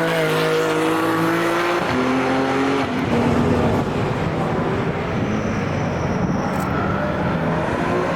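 Racing cars passing one after another at speed, engines at high revs, each engine's pitch sliding down as it goes by and new engine notes taking over every second or two.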